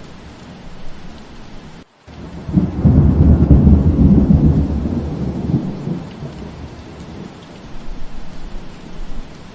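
Steady rain falling, with a roll of thunder that starts about two and a half seconds in, rumbles low and loud for a few seconds, then fades. Just before the thunder the sound cuts out for a split second.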